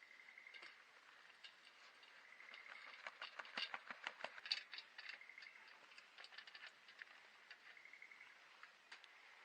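Faint outdoor ambience: scattered sharp clicks and crackles, thickest in the middle, with a short high pulsed trill from a small animal repeating every two or three seconds.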